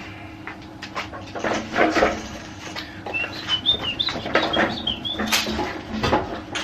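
Irregular knocks and clicks of tools and parts being handled, with a run of high, wavering squeaky chirps about three seconds in.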